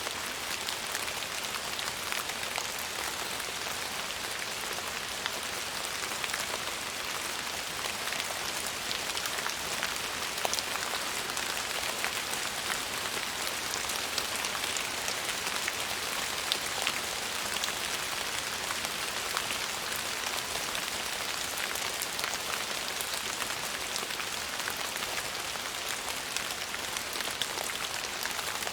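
Steady rain falling on a surface: an even hiss with many small, sharp drop impacts scattered through it.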